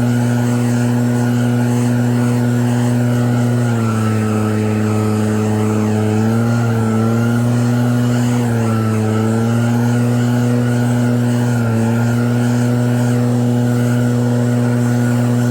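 Snowblower engine running steadily, its pitch dipping and recovering about four times.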